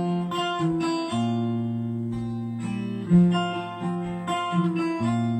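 Acoustic guitar playing an instrumental passage of a song, with plucked and strummed chords ringing on and no singing.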